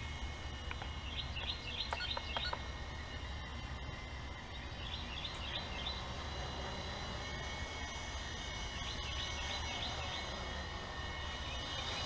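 Faint steady whine of a small RC helicopter's electric motor and rotors in flight. A bird calls three times over it, each call a quick run of four or five notes.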